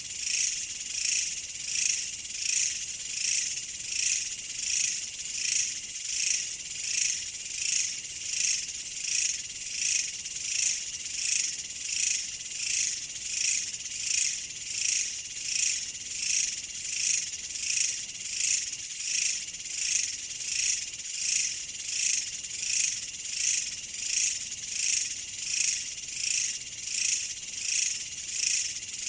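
Chorus of chirping insects, high-pitched and continuous, swelling and fading in an even pulse about once a second.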